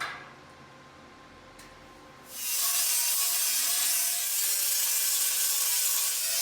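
Angle grinder grinding down weld beads on 14-gauge sheet steel: a steady, loud grinding hiss with the motor's hum under it, starting about two seconds in.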